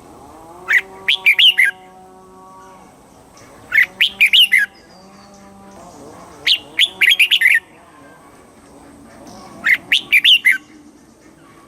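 Red-whiskered bulbul singing: four short, quick, bubbly phrases, one about every three seconds.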